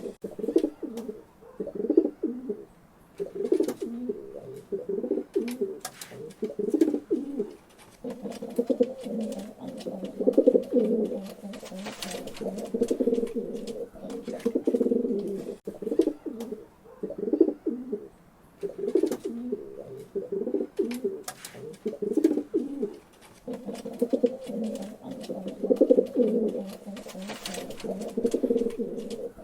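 Pigeons cooing over and over in low, throaty phrases that repeat every second or two and overlap almost without a break.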